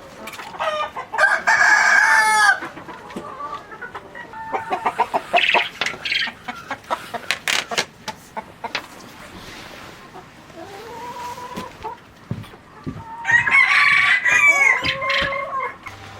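Domestic chickens: a rooster crows about a second in and again near the end, with hens clucking and a run of sharp knocks or taps between the crows.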